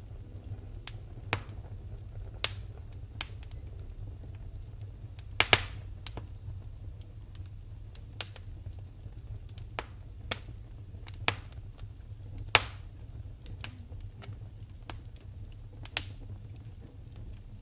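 Wood fire in a fireplace crackling: sharp, irregular pops and snaps over a steady low rumble, the loudest a quick pair about five seconds in and another single snap past twelve seconds.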